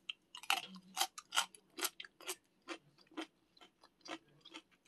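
A person chewing crisp pieces of pickled radish from dongchimi (Korean radish water kimchi), with close, crisp crunches about twice a second that grow a little fainter toward the end.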